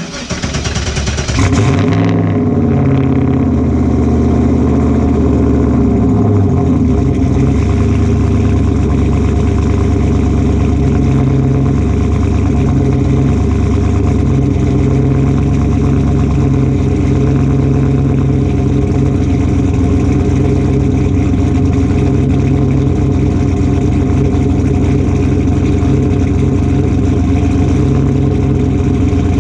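Turbocharged V8 engine swapped into a BMW E46 M3, running loudly. It comes in abruptly with a brief sharper flare over the first two seconds, then holds a steady, even run, with a short rise and fall in revs at the very end.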